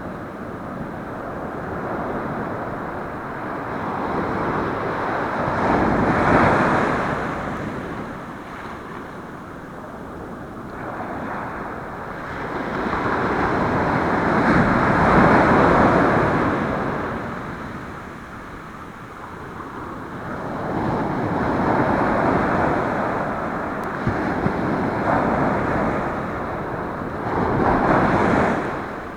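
Ocean surf breaking and washing on the shore, swelling and fading in four big surges several seconds apart, with wind buffeting the microphone.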